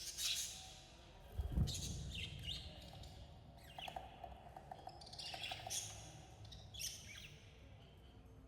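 Budgerigars chirping: many short, quick calls that fall in pitch, one after another, with a buzzier stretch in the middle. A low thump about one and a half seconds in is the loudest sound.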